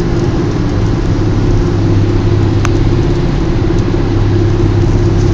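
Steady engine and road drone of a moving car, heard inside the cabin. There is one brief sharp click about two and a half seconds in.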